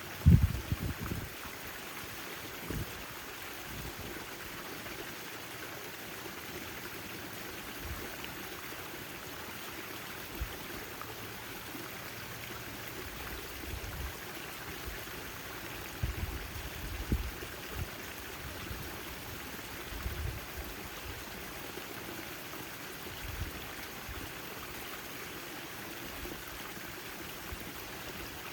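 Backyard water fountain splashing steadily. A few short low thumps break through it, the loudest just after the start and a small cluster about two-thirds of the way through.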